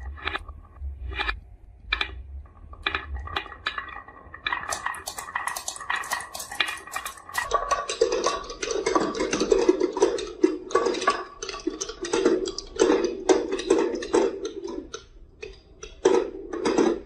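Marbles clacking and rolling along a marble run: scattered separate clicks at first, then from about eight seconds a dense, continuous rattle of many marbles that cuts off suddenly at the end.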